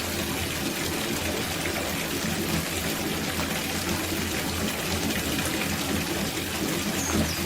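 Water pouring steadily from a tap into an outdoor copper bathtub as it fills.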